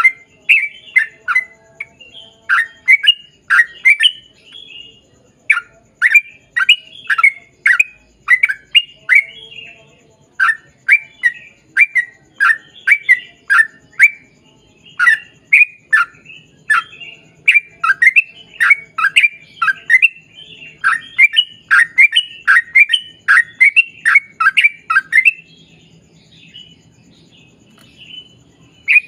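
Yellow-vented bulbul singing a long, rapid run of short downslurred notes, several a second, which drops to a few faint notes near the end.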